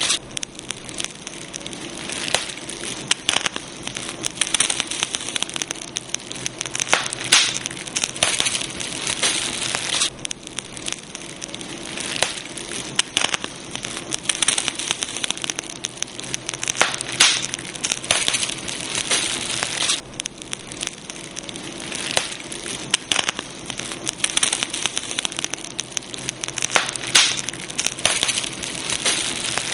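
Campfire burning, crackling with frequent sharp pops and snaps over a steady hiss.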